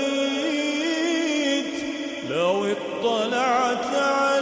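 Melodic Quranic recitation in tajweed style: a single reciter holding long, ornamented notes that waver up and down in pitch, with a sliding rise a little past halfway.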